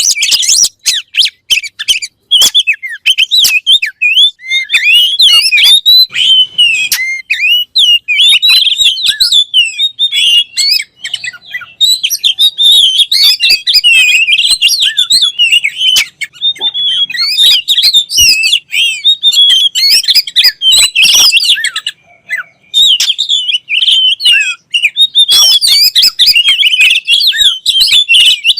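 Oriental magpie-robin (kacer) singing a rapid, varied run of chirps and whistled notes, almost without a break, with a short pause about three quarters of the way through.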